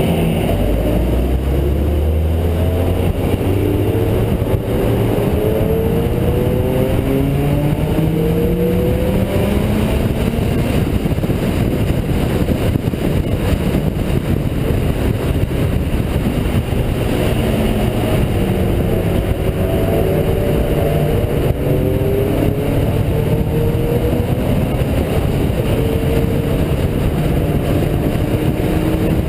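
Honda Integra DC2's B18C four-cylinder engine heard on board under hard acceleration, its pitch climbing again and again as it pulls through the gears, over steady road and wind noise.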